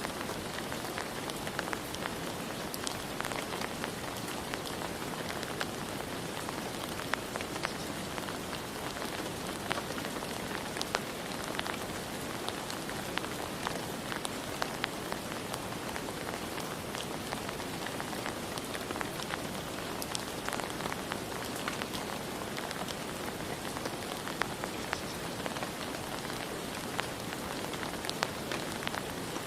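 Steady rain falling, a dense even hiss with many individual drops ticking sharply throughout.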